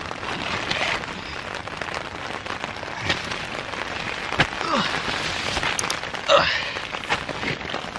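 Rain pattering on the nylon tent, heard from inside, with rustling of the tent fabric and a few knocks as cardboard pizza and nacho boxes are set down on the groundsheet; the loudest knock comes about six seconds in.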